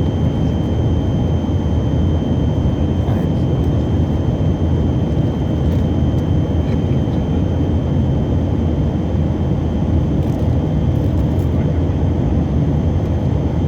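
Steady cabin noise of a Tupolev Tu-134AK airliner in level flight: its two tail-mounted Soloviev D-30 turbofans running, a deep even noise with a thin steady high whine above it.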